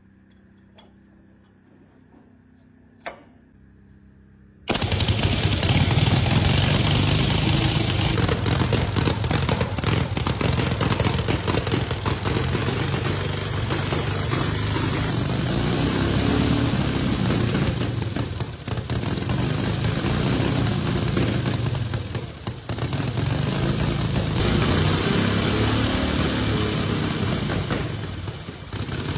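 Motorcycle engine that starts suddenly about five seconds in and then runs loud, with a dense rapid crackle of popping throughout; the level dips briefly three times. A single sharp click comes before it starts.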